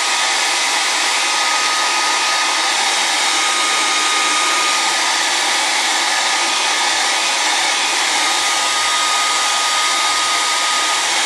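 Handheld hair dryer running steadily, a constant rush of air with a steady whine held at one pitch, blowing on freshly applied contact cement to dry it.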